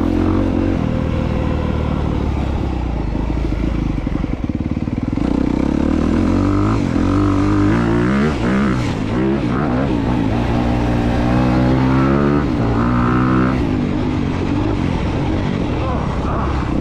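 2022 Honda CRF250R's single-cylinder four-stroke engine revving up and down repeatedly as the dirt bike is ridden.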